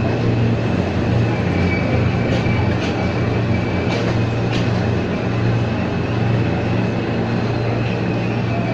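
Ex-JR 203 series electric multiple unit running along the track, a steady low rumble with a thin high-pitched whine over it. A few sharp clicks come through near the middle.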